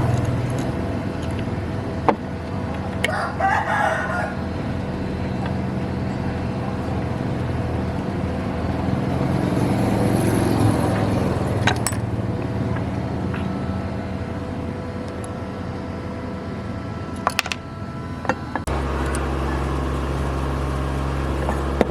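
A rooster crows once, about three seconds in, over a steady motor hum with a few sharp clicks; near the end the hum becomes deeper and louder.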